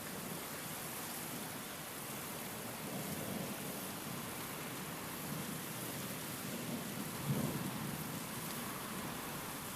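Steady rain, with low rumbles of thunder swelling twice, the stronger one about seven seconds in.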